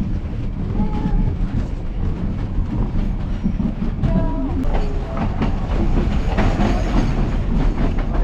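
Railroad passenger car of the Durango & Silverton narrow-gauge train rolling along, with a steady rumble and the clickety-clack of wheels on the rails.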